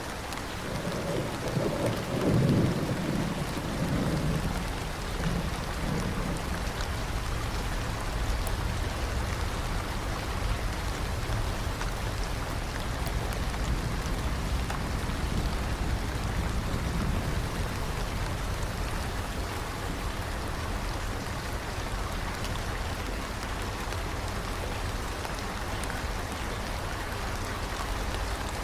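Steady heavy rain, with a low roll of thunder in the first few seconds that peaks about two and a half seconds in and fades out by about six seconds.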